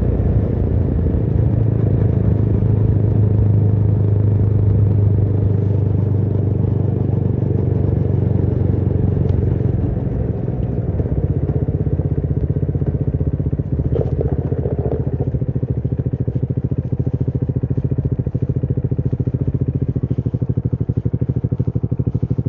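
Motorcycle engine running steadily, then easing off about halfway through and settling into a rapid, even pulsing idle.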